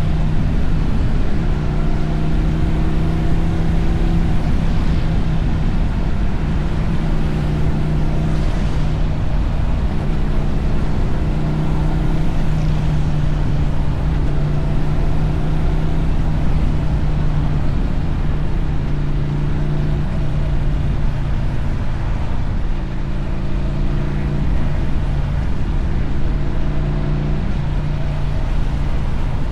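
Motorcycle engine and exhaust running at steady cruising revs, the pitch stepping slightly up or down every few seconds, over a constant hiss of wind and tyres on a wet road.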